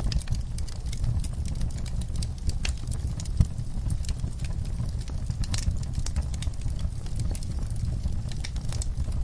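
Wood fire burning in a fireplace: logs crackling with scattered sharp pops over a low steady rumble, one pop louder than the rest about a third of the way in.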